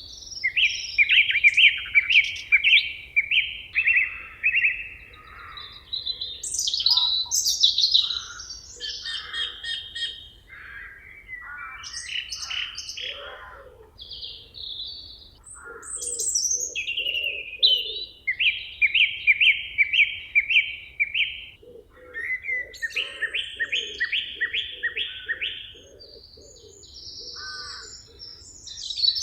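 Several songbirds singing at once in a forest, overlapping phrases of quickly repeated high notes that come in bouts of two or three seconds. A lower, evenly paced series of notes joins in the middle and again near the end.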